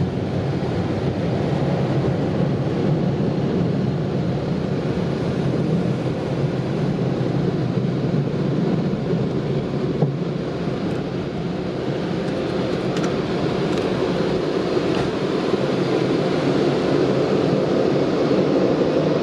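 A car running with a steady, even rumble, with a few faint ticks in the middle.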